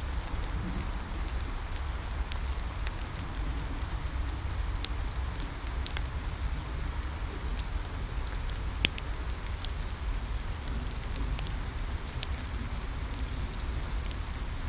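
Steady rain falling, with the irregular sharp pops and crackles of a wood bonfire; one louder pop about nine seconds in.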